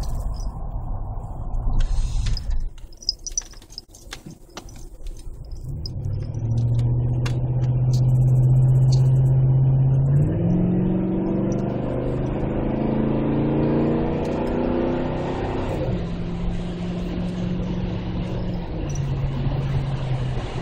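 2008 Chevy Tahoe's V8 exhaust through an aftermarket Magnaflow muffler, after a few clicks and rustles. About six seconds in, a deep steady engine note comes up, steps higher and rises in pitch under acceleration, then holds and drops back to the lower drone near the end.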